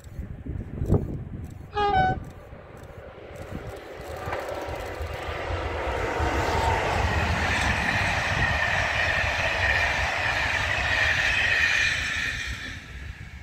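Electric locomotive hauling a rake of passenger coaches passing on the main line: a wheel-on-rail rumble builds from about four seconds in, carrying a steady high whine, and fades away near the end. About two seconds in, before the train passes, there is a short, loud sound with quickly falling notes.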